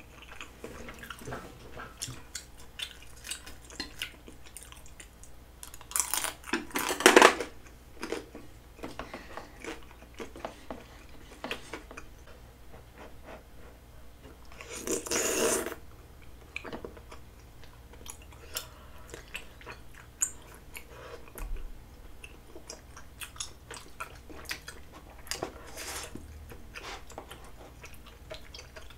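Close-miked chewing of chewy tteokbokki rice cakes in creamy carbonara sauce, with many small wet mouth clicks and smacks. Two louder, longer mouth sounds come as food is taken in, about six seconds in and again about fifteen seconds in.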